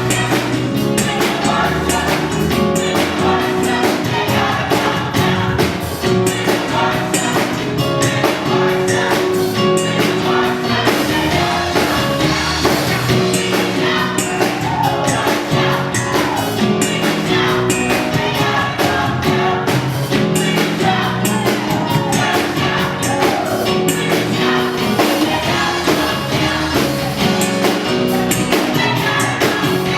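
Choir singing a gospel song with band accompaniment and a steady drum beat.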